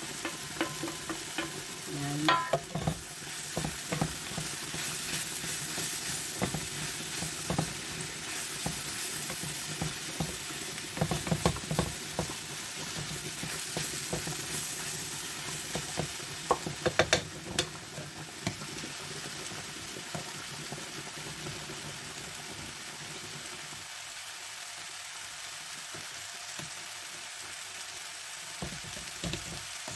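Diced eggplant and chopped garlic sizzling in hot oil in a wok, stirred with a wooden spatula that scrapes and knocks against the pan. The stirring stops a little past halfway, leaving a steady sizzle.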